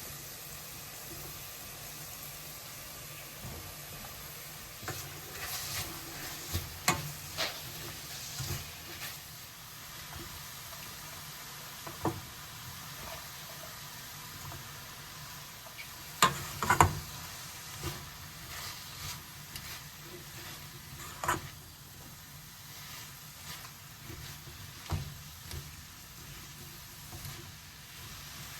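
Food sizzling in a frying pan with a steady hiss, broken by scattered clicks and scrapes of a utensil stirring against the pan. There is a cluster of sharper knocks a little past halfway.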